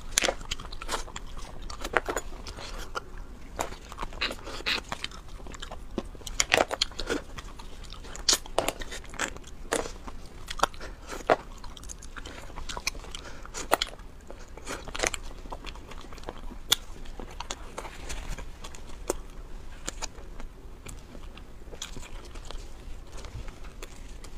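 Close-miked eating: a person biting and chewing food, with many sharp, crunchy clicks at irregular intervals.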